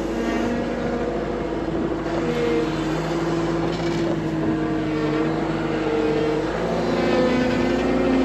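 Tractor engine running as it drives out, its pitch stepping up and down a few times as the engine speed changes.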